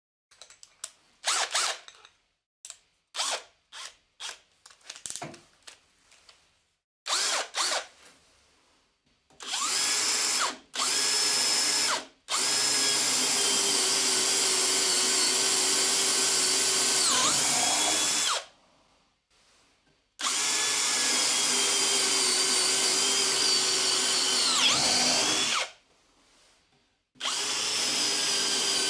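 Electric power tool motor: a string of brief blips, then several runs of a steady whine of several seconds each, stopping in between. The pitch sags briefly twice, as the tool comes under load.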